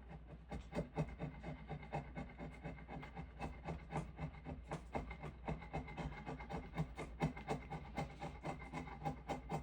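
Hand tool scraping diamond willow in quick, irregular strokes, a few a second, over a steady low hum.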